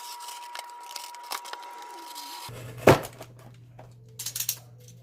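Scissors snipping through a cardboard cereal box, with light rustling and small clicks and one sharp snap about three seconds in. A thin steady high tone runs through the first half.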